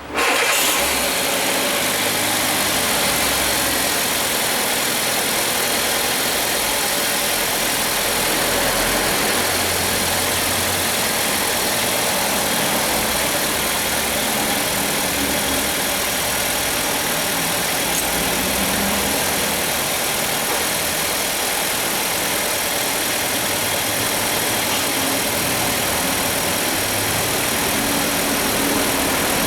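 Fiat Grand Siena's 1.4 Evo four-cylinder engine catching right at the start and then idling steadily. It is a first start after a service, with the fuel system primed by cycling the key.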